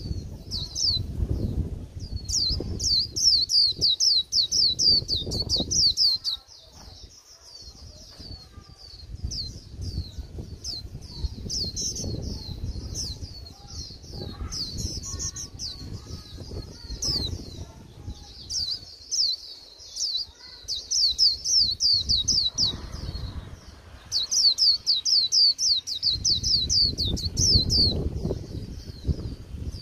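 Wild-caught white-eye singing: bursts of rapid, high, thin falling notes strung into chattering warbles a few seconds long, repeated several times, over a low irregular rumble. The keeper calls this late-season bird's warble bland.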